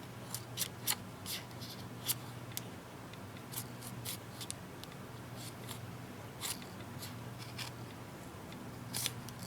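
Irregular sharp clicks and ticks of a pry tool working under the edge of a tablet's glued front glass and LCD, breaking the adhesive, over a steady low hum.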